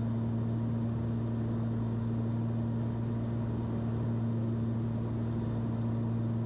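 Steady cockpit drone of a Cessna 340's twin piston engines and propellers in descent, an even low hum with no change in pitch.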